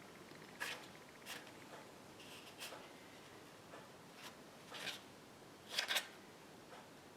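Cardstock pieces being handled and counted: faint, scattered paper rustles and soft taps, short and roughly a second apart, the loudest pair about six seconds in.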